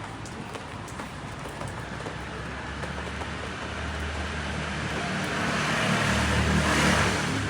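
A car passing close by on a wet street: engine and tyre hiss on the wet road grow louder, peak near the end, then begin to fade.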